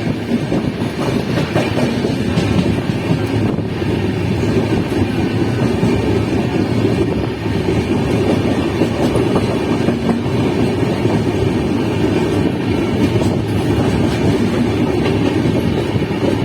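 12650 Karnataka Sampark Kranti express train's coaches rolling along the rails as it departs, a steady heavy rumble of wheels on track.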